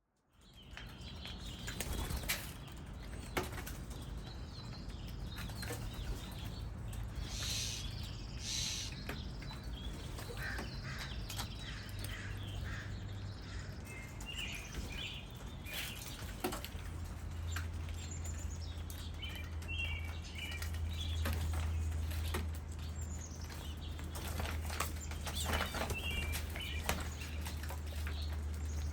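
Small birds chirping in short, scattered calls, with many brief flutter-like noises among them and a steady low rumble underneath. The sound fades in at the start.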